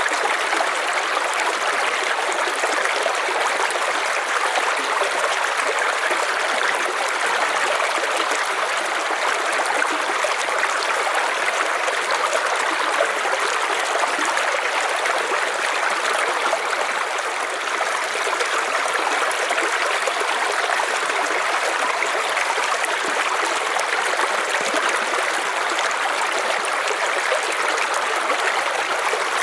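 A river's water running over stones, a steady rushing with fine trickling detail.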